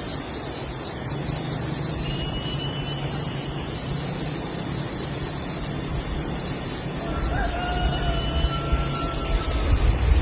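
Steady, high-pitched insect chorus with a fast pulsing trill, the kind made by crickets or cicadas. Faint thin whistles come once a couple of seconds in and again in the second half.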